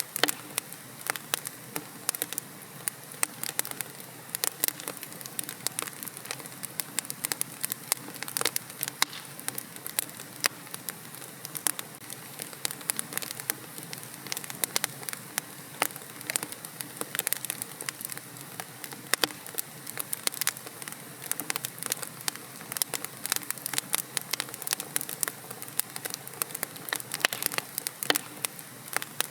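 Wood fire burning in a fireplace, crackling with many sharp, irregular pops and snaps over a steady low hiss.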